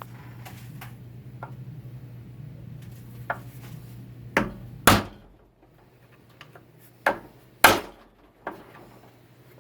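Sharp knocks and clanks of hand tools against transmission parts during a 4L60E teardown: about six separate hits, the loudest two about halfway and a little before the end, over a steady low hum that fades out about halfway.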